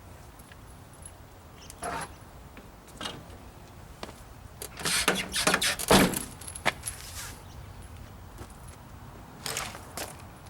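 Scattered metallic clinks and rattles of parts being handled, with a cluster of louder clanks and knocks near the middle.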